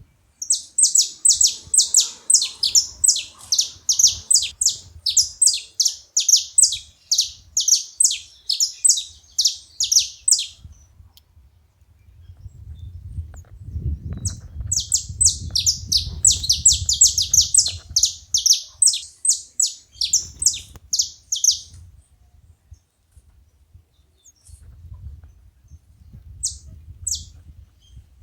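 Saffron finches calling: long runs of sharp, rapid, high chirps. There are two main bouts of several seconds each, then a pause with a few scattered notes, and the calls pick up again at the very end.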